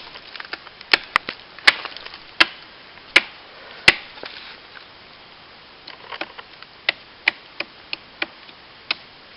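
Sharp chopping blows into wood, about a dozen in all: a slower run of strikes, a pause of about two seconds, then a quicker run of lighter strikes near the end.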